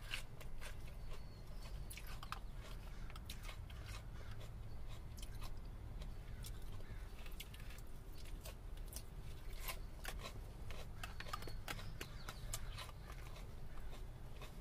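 A person chewing mouthfuls of lettuce salad close to the microphone, with crisp crunching and wet mouth sounds, and small clicks of the fork against the plastic salad bowl. A steady low hum runs underneath.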